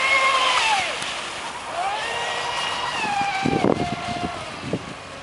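Spartan radio-controlled speedboat's electric motor whining at high revs, its pitch rising and falling in two sweeps as the throttle changes and the boat runs by. A few low rumbles come near the end.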